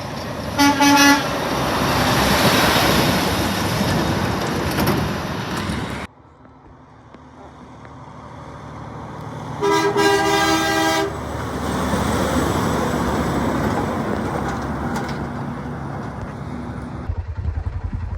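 Semi-trucks passing close by on a highway and sounding their horns: a short horn blast just after the start as the first truck rushes past, then a longer blast just past halfway as a second truck goes by. Near the end the sound switches abruptly to a throbbing engine.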